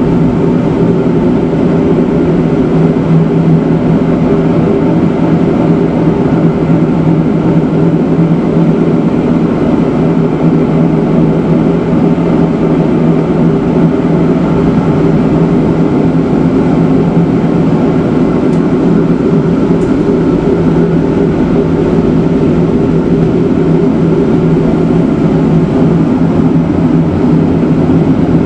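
Matterhorn Gotthard Bahn rack-railway train running along the track: a loud, steady hum of motors and wheels that does not change.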